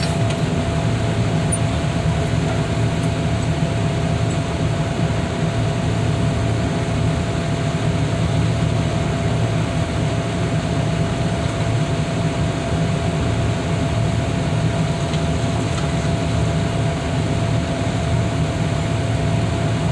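Heavy car-crushing equipment's engine running steadily, a constant low drone with a steady high whine over it.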